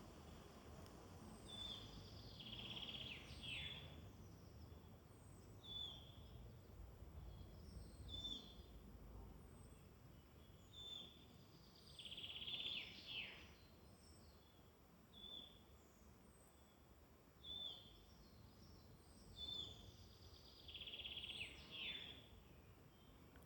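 Faint woodland birdsong: one bird repeats a short high call about every two seconds, and three times a longer trilled phrase that drops in pitch at the end rings out. A steady low rumble of ambient noise runs underneath.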